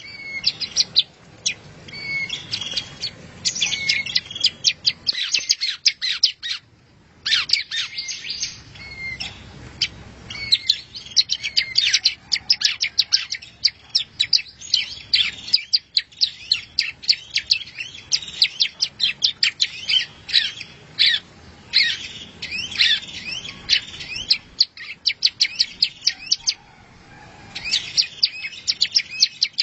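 A songbird singing long runs of rapid, high chirps and twittering phrases, with a short pause about six seconds in and another near the end.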